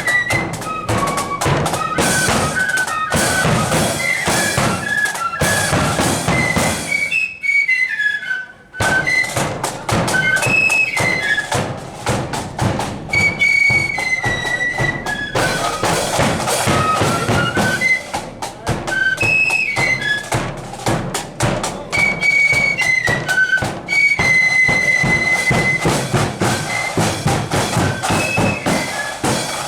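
Marching flute band playing a tune in the high register over snare and bass drums, with a short break about seven to eight seconds in before the tune resumes.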